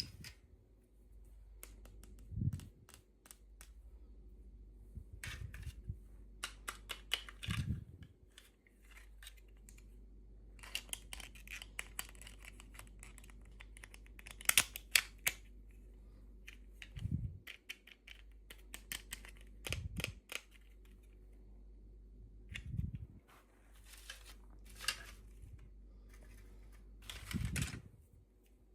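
Hands unboxing small toys: plastic packaging crinkling and tearing, with scattered clicks of small plastic parts and a few soft thuds as things are set down.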